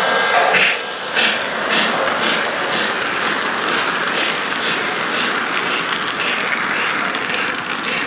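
Lionel O-scale 0-8-0 toy steam locomotive running around the track: steady rhythmic steam chuffing from the tender's built-in speaker, a little under two chuffs a second, over the rolling noise of the train.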